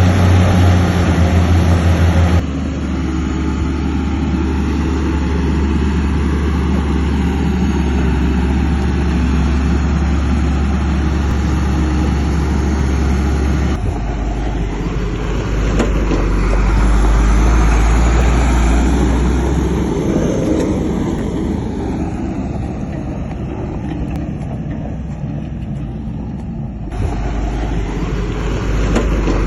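Heavy diesel engines of a bulldozer and dump trucks running steadily, with a strong low rumble. The engine sound changes abruptly three times, about 2 s, 14 s and 27 s in.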